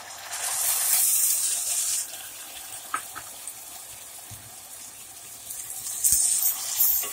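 Chopped tomatoes sizzling as they hit hot fat and browned onions in a pot: a loud hiss for the first couple of seconds that eases off, then swells again near the end as a wooden spoon stirs them.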